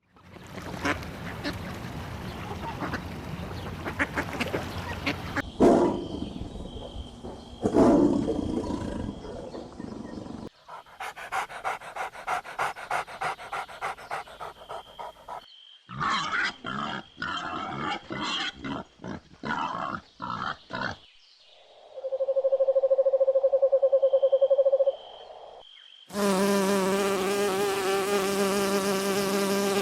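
A run of separate animal sound clips cut one after another: a noisy stretch with two loud cries, then rapid clicking, then uneven pulsed calls. Near the end comes a steady, pitched insect buzz like a fly or bee.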